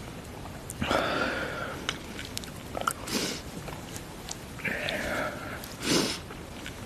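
A person sniffling and taking sharp, noisy breaths with small wet mouth clicks and brief voiced sounds in between, reacting to the burn of an extremely hot chili chip.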